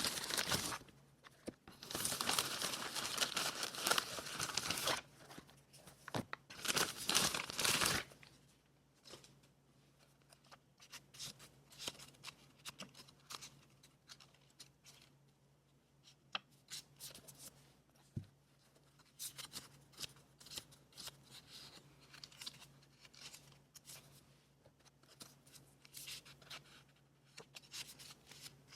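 Paper being torn in long, loud rips for the first several seconds, then quieter scattered rustling and small clicks of paper being handled.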